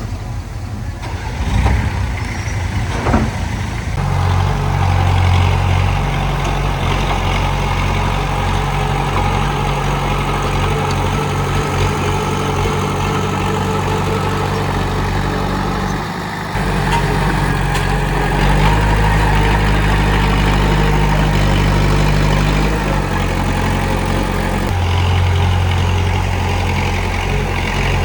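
Komatsu D31P bulldozer's diesel engine running under varying load; its note steps up and down several times. A couple of short knocks sound in the first few seconds.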